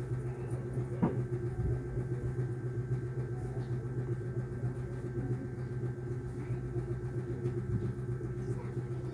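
Steady low hum from a small motor or mains-powered equipment, with one sharp click about a second in.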